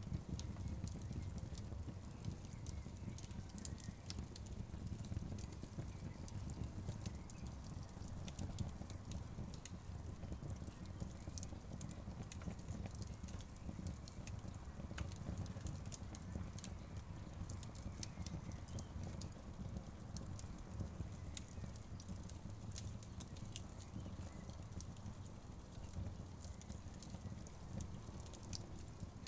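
Wood fire burning in an outdoor fireplace: a steady low rumble of the flames with many small, sharp crackles and pops from the burning logs scattered throughout.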